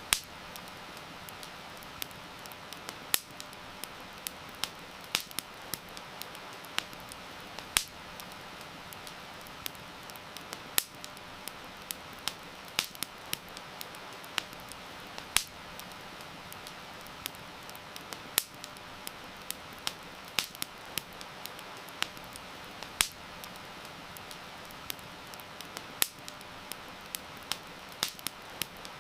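Wood fire crackling, with sharp pops and snaps at irregular intervals, over a steady hiss of heavy rain.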